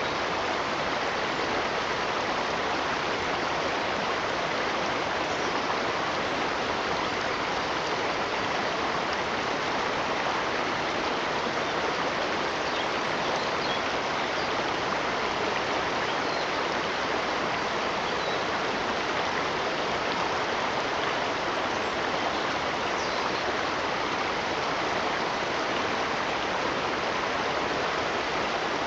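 Running water rushing steadily and evenly, with no pauses or changes.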